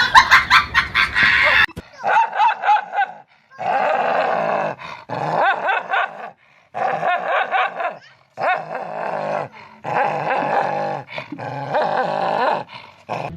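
A dog vocalising: a string of pitched whines and yips, each about a second long, rising and falling in pitch with short gaps between. In the first couple of seconds, before them, a loud run of rapid clicks and clatter.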